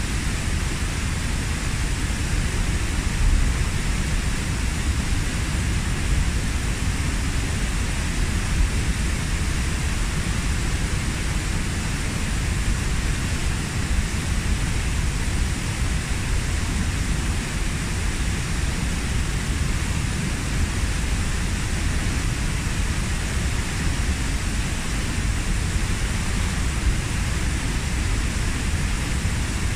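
Waterfall plunging into its pool: a steady, unbroken rush of falling water with a deep low rumble.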